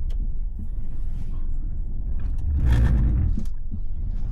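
Vehicle driving over snow: a steady low engine and road rumble, with a louder rushing swell about three seconds in.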